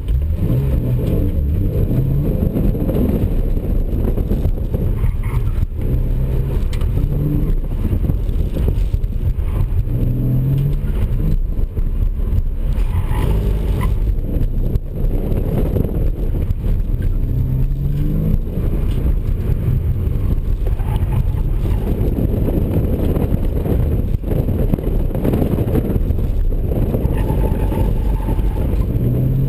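Porsche 997 Carrera's flat-six engine accelerating and lifting off again and again during a fast autocross run, heard from inside the cabin: its pitch climbs in short rises every few seconds over a steady low rumble.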